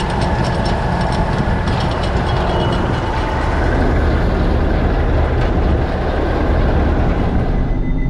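Don-1500B combine harvester running, a steady diesel engine and machinery noise, with a run of light clattering clicks in the first few seconds.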